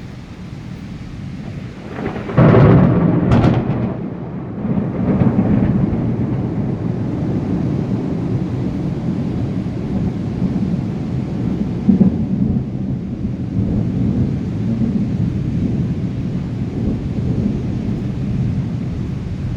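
Thunderstorm with rain: a close thunderclap breaks suddenly about two seconds in, with a sharp crack a second later, then rumbles on low and long, swelling again about halfway through.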